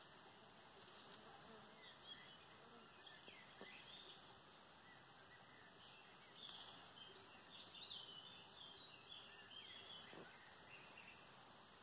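Near silence: faint outdoor ambience with scattered short, high bird chirps in the distance, busiest in the middle of the stretch.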